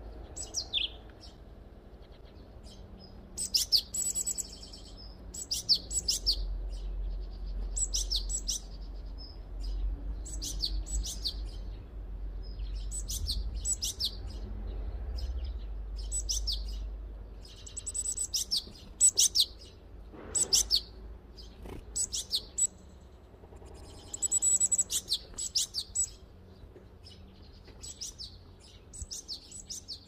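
Small bird chirping in quick clusters of high, sharp notes, a cluster every second or two, with a low rumble underneath through the middle stretch.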